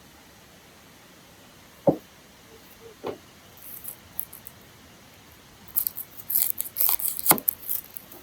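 Vegetable preparation on a cutting board: a couple of single knocks, then a quick run of crisp clicks and scrapes near the end.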